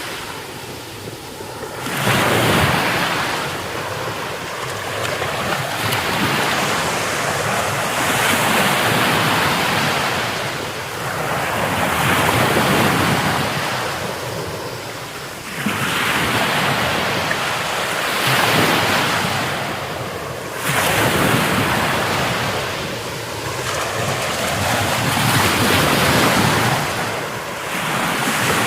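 Heavy Mediterranean surf: large waves breaking and rushing ashore in repeated surges every few seconds, several crashing in suddenly, with wind noise on the microphone.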